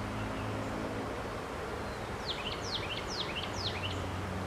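A bird sings a quick run of about five short, downward-sliding notes about two seconds in, over a steady low hum.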